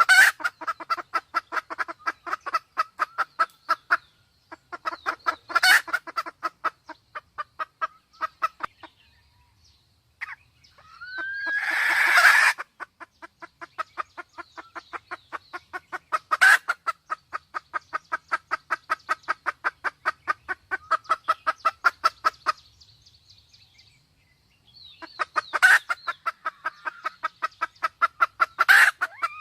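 Red junglefowl calling: long runs of fast, evenly repeated clucking notes from a hen in breeding condition, broken by a few sharper, louder calls and two short pauses. About eleven to twelve seconds in comes a louder, longer call with a rising sweep, a short crow from the cock.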